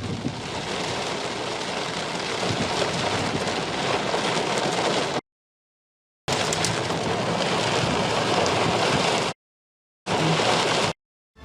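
Heavy rain in a downpour: a steady, dense rushing hiss, broken twice by short silent gaps where the footage is cut.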